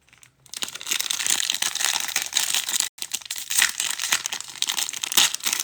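Plastic trading-card packaging crinkling and rustling as it is handled. It starts about half a second in, with one brief break about three seconds in.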